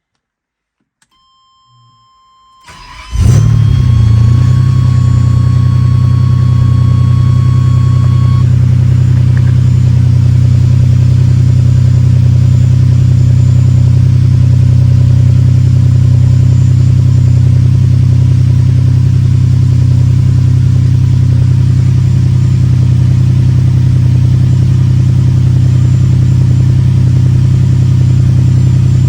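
Ferrari 456's V12 engine cold-starting: a brief crank about three seconds in, then a loud, steady idle. A steady electronic warning tone sounds from about a second in and stops several seconds after the engine catches. The engine is running with a random misfire, which the owner feels as a slight vibration and which the codes put on cylinders 7 and 12.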